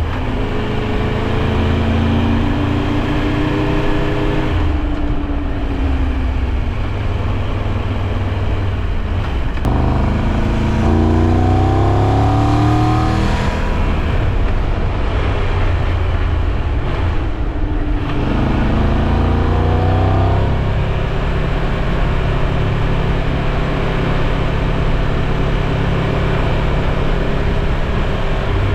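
Triumph Tiger 1200 Rally Pro's three-cylinder engine on the move, its pitch climbing under throttle three times and dropping away between, over a steady rush of wind and road noise.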